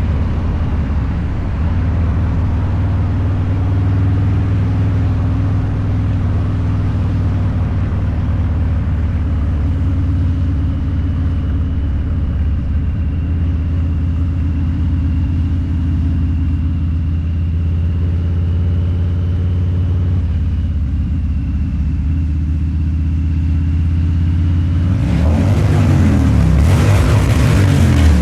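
Harley-Davidson Low Rider's 129ci V-twin, breathing through a Two Brothers Racing exhaust, running at a steady cruise. About 25 seconds in the throttle opens: the engine gets louder and its pitch climbs, then drops back near the end.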